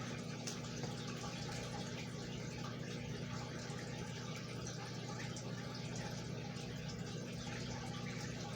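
Steady low background hum with an even hiss, unchanging throughout: room noise from a running appliance or fan.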